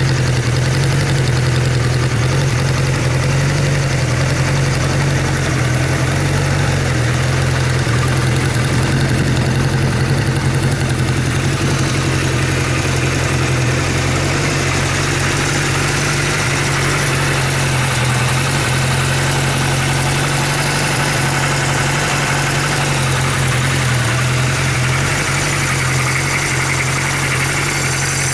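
Kawasaki Z1 Z900-A4's air-cooled inline four-cylinder engine idling steadily.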